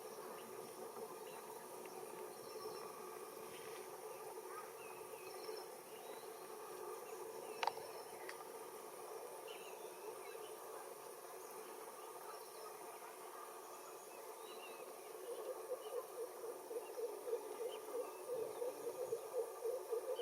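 Steady chorus of insects chirping and droning. A rhythmic pulsing call of about three to four beats a second builds up and grows louder over the last few seconds, and there is a single sharp click about midway.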